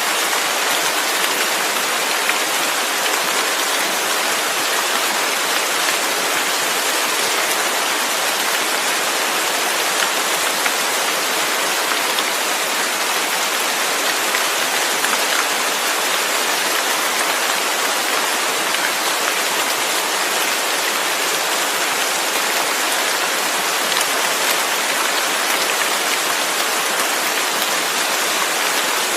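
Steady heavy rain falling, a dense even hiss with fine scattered drop ticks and no change in intensity.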